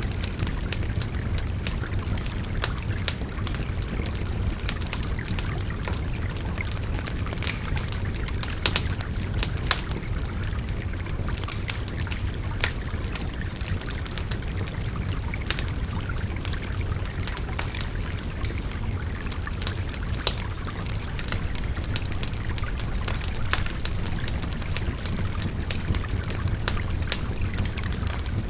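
A river babbling steadily, mixed with a wood fire crackling and popping in irregular sharp snaps.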